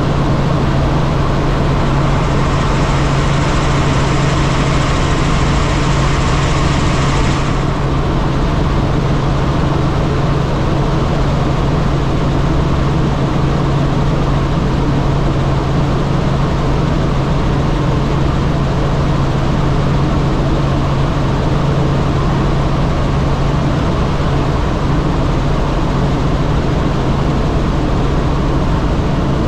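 Helicopter in flight, its engine and rotors running steadily with a constant low hum. A higher hiss joins about two seconds in and cuts off suddenly a few seconds later.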